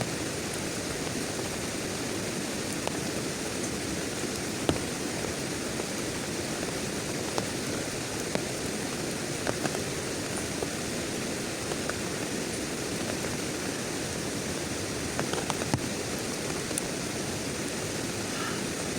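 Heavy rain falling steadily, with scattered single drops striking close by as sharp taps.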